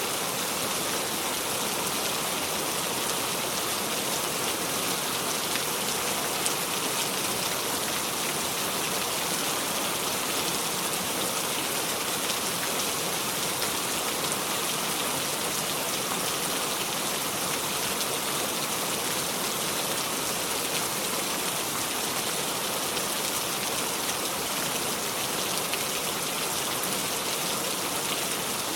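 Steady rain with no thunder, a constant hiss with fine pattering of drops.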